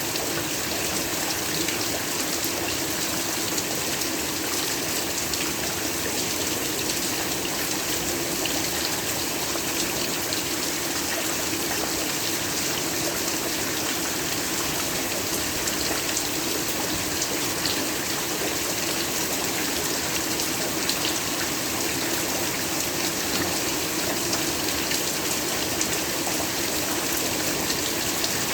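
Heavy rain falling steadily, an even hiss with scattered drop ticks and no change in intensity.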